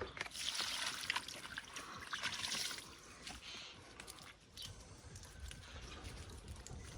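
A trickle of liquid splashing, strongest for the first three seconds, then fainter with scattered drips and clicks.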